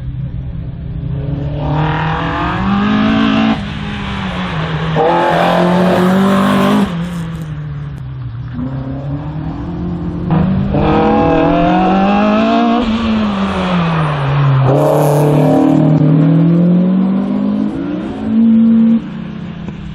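Race car engine accelerating hard and lifting off again and again, its pitch climbing then dropping several times, as it is driven between the cones of an autoslalom course.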